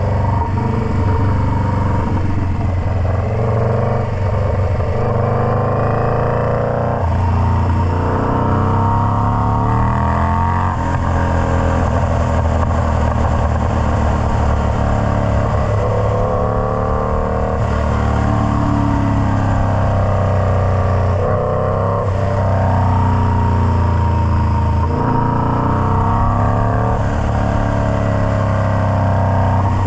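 Indian Scout Bobber's liquid-cooled V-twin running through a Freedom Performance Combat 2-into-1 exhaust. The engine speed climbs over a few seconds and falls back again and again.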